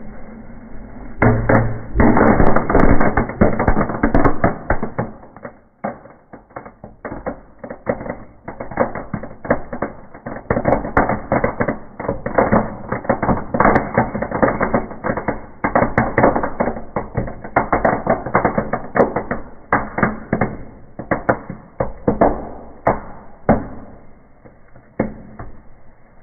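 Birch bark burning in a fireplace, crackling and popping: a dense burst of crackle starts about a second in, then carries on as many quick sharp pops that thin out near the end.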